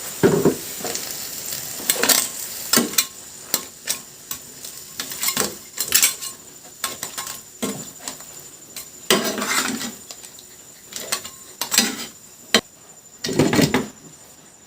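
A utensil knocking and scraping against a cooking pot in irregular strokes while the crab and bamboo-shoot dish is stirred.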